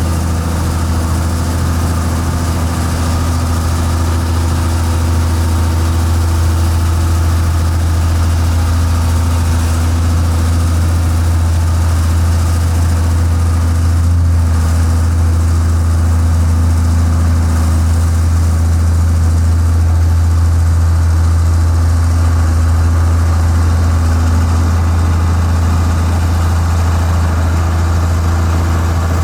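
Heavy construction-machine diesel engine running at a steady speed, with a deep, even low hum and no change in pitch.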